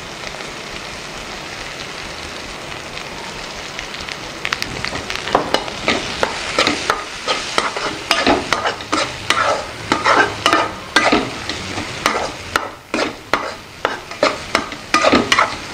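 Onions, tomatoes and green chillies sizzle steadily in oil in a metal kadai. From about five seconds in, a metal spatula stirs the mixture, with repeated quick scrapes and knocks against the pan.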